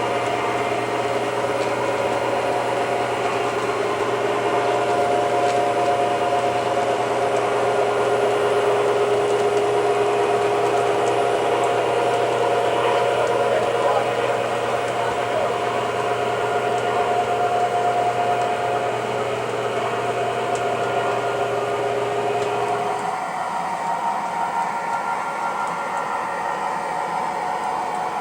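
O scale model locomotive running on the layout, its onboard sound system playing a steady diesel engine hum over the rumble of the wheels. The engine sound drops and eases about 23 seconds in.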